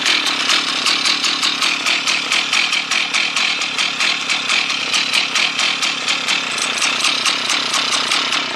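Rebuilt Husqvarna 1100 two-stroke chainsaw running steadily with a fast, even pulse, on a replacement carburetor built for a Husqvarna 395.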